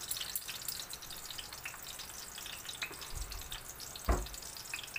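Hot dogs frying in oil in a pan, a steady sizzle with many small crackles of spitting oil. A dull knock about four seconds in.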